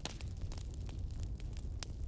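Bonfire crackling, with irregular sharp pops and snaps over a steady low rumble.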